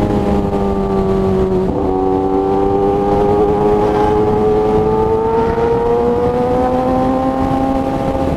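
Kawasaki ZX-10R inline-four with an SC Project aftermarket exhaust, running under way while the bike is ridden. Its pitch steps once about two seconds in, then climbs slowly as the bike pulls, over wind rumble on the microphone.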